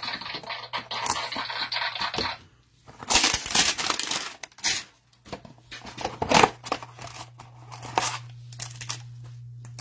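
A Prizm football trading-card hanger box being torn open by hand: cardboard and wrapper tearing and rustling in irregular bursts with short pauses.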